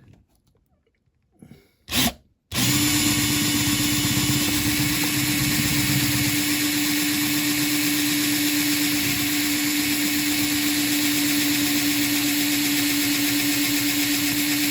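Small electric drill starting with a brief blip, then running steadily with an even whine, drilling into the diecast metal body of a Dinky Toys Ford Transit van.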